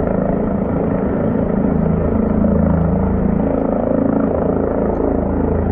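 Rescue helicopter hovering, its rotor and engine making a steady, unbroken drone while it holds position over the hoist.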